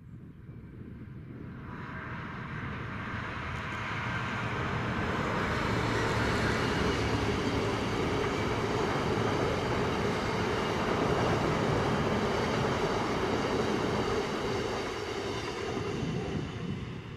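Class 66-hauled freight train of covered hopper wagons rolling past: a steady rumble of wheels on rail builds over the first few seconds, holds, then dies away near the end as the last wagons pass.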